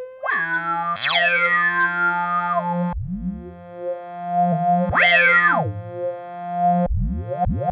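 Make Noise modular synthesizer laser 'pew' zaps: an XPO oscillator's pitch sweeps sharply down from high about a second in, then sweeps up from low several times, over a steady low held tone. The sound is washed in a long Erbe-Verb reverb.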